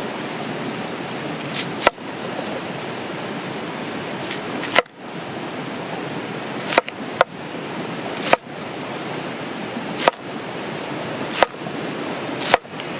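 Steady rush of flowing river water, with eight sharp, short knocks at uneven intervals of about one to two seconds.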